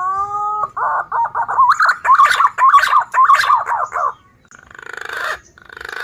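Green pigeon (punai) calling: a rising whistled note, then about three seconds of quick, bubbling warbled whistles, followed by two short harsh, rasping calls near the end.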